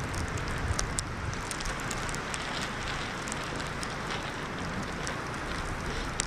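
Winter storm wind blowing steadily, rumbling on the microphone, with scattered light ticks throughout.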